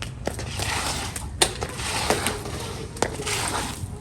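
Floor wipers (rubber squeegees) scraping and pushing rainwater across a wet floor, with sharp knocks and clicks.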